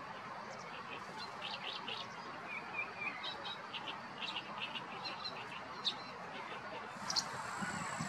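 Small birds chirping: many short, high chirps and twitters, scattered irregularly, with a brief wavering phrase about three seconds in, over a steady background hiss.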